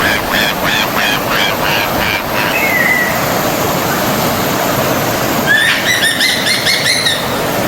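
Forest stream rushing steadily, with birds singing over it: a run of quick repeated notes ending in a short slurred note in the first few seconds, then a rapid trill from another bird near the end.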